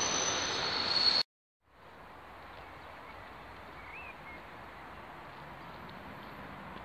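An EN57 electric multiple unit running past with a high, steady wheel squeal, which cuts off abruptly about a second in. Then quiet outdoor ambience with a single short bird chirp about four seconds in.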